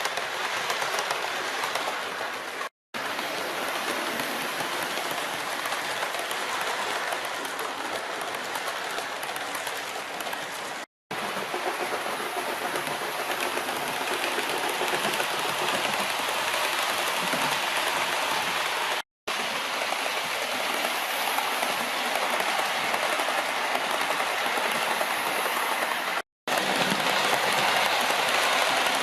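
OO gauge model trains running on the layout's track: a steady rattling hiss of wheels on rails and motor whir. It breaks off abruptly four times as the scene cuts.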